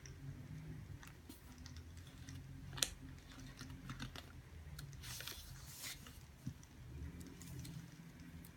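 Quiet desk sounds of someone studying: scattered light clicks and taps like keys or a pen on the desk, with one sharper click about three seconds in and a brief rustle a couple of seconds later, over a low steady hum.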